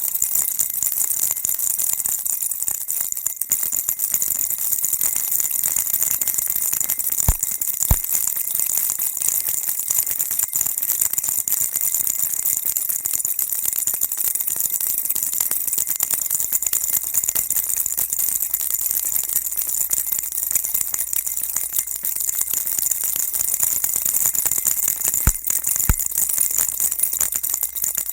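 Baby rattle shaken on and on: a steady, dense, high-pitched rattling used as white noise for calming a baby. Two pairs of sharper clicks stand out, about seven seconds in and again near the end.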